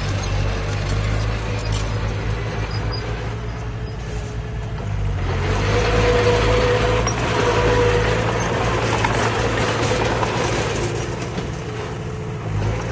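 Heavy diesel engine of earthmoving machinery running with a steady low drone. About five seconds in it grows louder, with a whine over it, under load for several seconds, then eases back.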